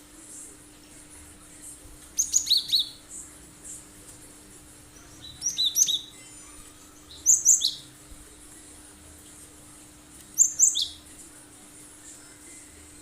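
Cinereous tit (gelatik batu) singing in four short bursts of sharp, high-pitched notes a few seconds apart, each burst stepping down in pitch: the piercing rapid song style bird keepers call "tembakan".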